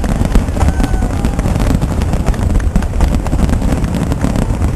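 Fireworks crackling and popping in quick succession over a steady low rumble of wind on the microphone.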